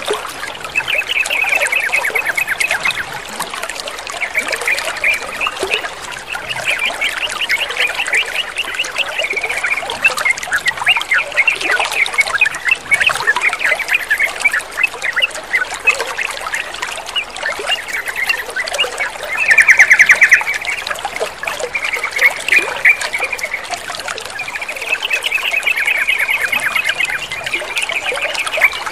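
Yellow-vented bulbuls chattering in rapid, repeated runs of notes over steadily trickling water, with one loud dense trill about two-thirds of the way through.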